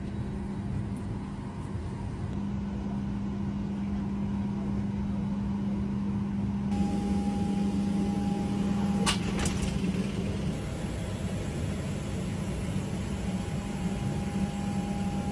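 A steady mechanical drone with a constant low hum. About seven seconds in it grows brighter and a steady higher tone joins, with a few sharp clicks shortly after.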